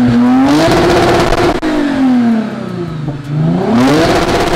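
Lexus IS350's V6 engine revving loud through a muffler-delete exhaust, its pitch climbing and falling twice.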